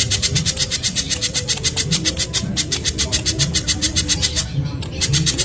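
Spiderhunter (kolibri pijantung) calling in a fast run of sharp, high notes, about ten a second, with a brief break near the end.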